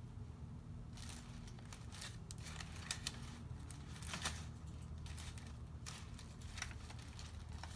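Paper and card being handled: scattered light rustles and small clicks, a dozen or so short ones spread through, over a steady low hum.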